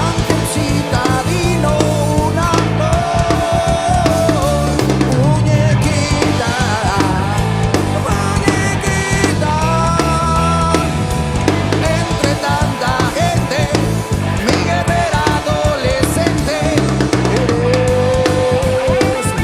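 Rock music: a full band passage with drum kit and bass under a melody line that bends up and down in pitch.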